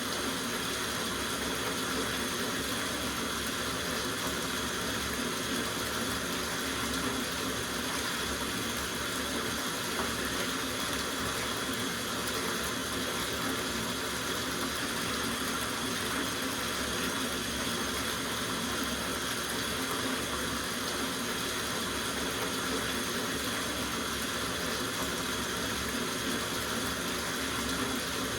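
Water running steadily from the tap into a soaking bathtub, an even, unbroken rushing splash.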